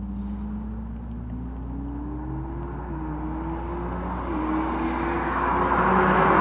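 Ferrari SF90 Stradale's 4-litre twin-turbo V8 pulling under acceleration, its note climbing steadily with two brief dips about three and four and a half seconds in, typical of gear changes. A rushing noise of tyres and wind grows louder toward the end.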